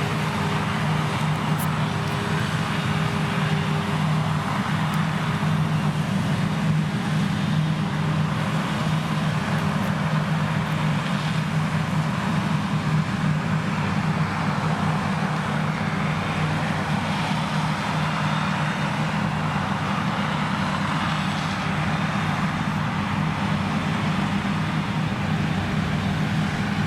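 Krone Big X 1100 self-propelled forage harvester running steadily under heavy load, its Liebherr V12 engine at full power with the chopping drum and crop intake working through standing triticale. A constant deep drone with an even rushing noise over it.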